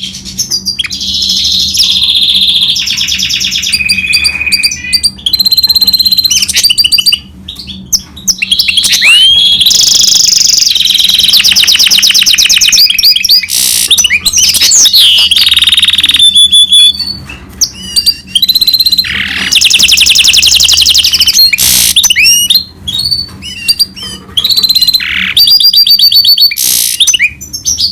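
European goldfinch × canary hybrid (a finch mule) singing a long, loud song of rapid trills, rolling repeated notes and gliding whistles, with a few short pauses.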